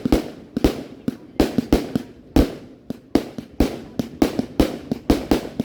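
Fireworks going off in a rapid, irregular series of sharp bangs, about two or three a second, each trailing off in an echo.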